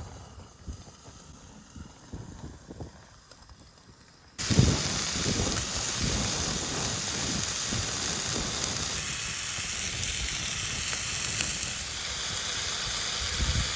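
Steak sizzling on a grill over an open fire. The steady hiss starts suddenly about four seconds in, after a quieter stretch with a few soft knocks.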